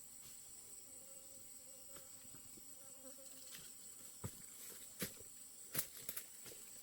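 Insects buzzing steadily with a high, even drone. About four seconds in, a few light knocks and clicks sound over it.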